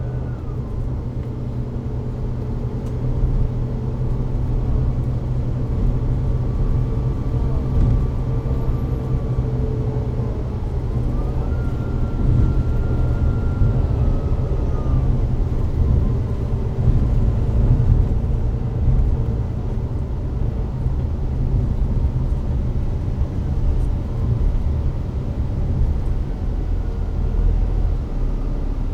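Volvo B9TL double-decker bus with a Volvo D9B diesel engine and Voith DIWA automatic gearbox running under way: a steady deep drivetrain rumble, with a fainter whine that rises about ten seconds in and falls away a few seconds later.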